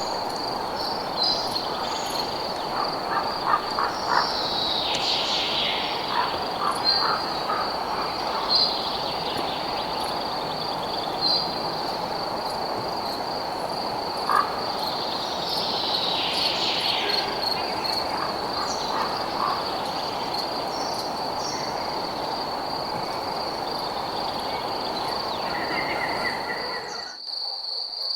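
Night-time nature ambience: a continuous high-pitched insect trill, cricket-like, over a steady hiss, with scattered short animal calls and chirps on top. About a second before the end the hiss cuts off abruptly, leaving only the insect trill.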